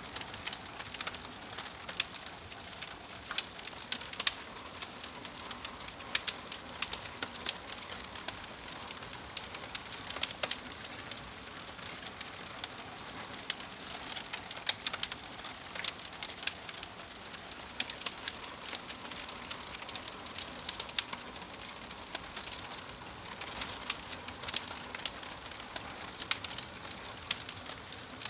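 Fire crackling: a steady hiss with frequent sharp snaps and pops at irregular intervals.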